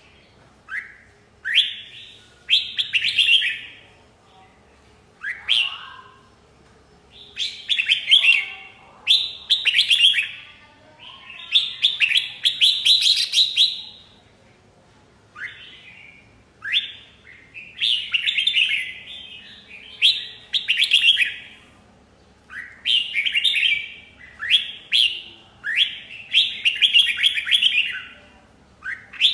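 Red-whiskered bulbul singing: a rapid series of short, bright warbled phrases, each opening with a quick upward sweep, repeated about every second with brief pauses between.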